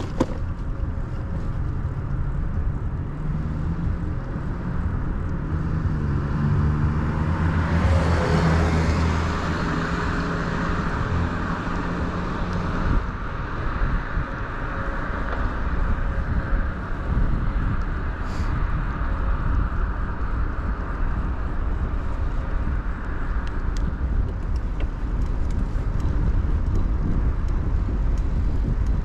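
Steady low rumble of wind and tyres on a moving bicycle, picked up by a chest-mounted action camera. A motor vehicle passes close about eight seconds in, swelling and falling in pitch as it goes by.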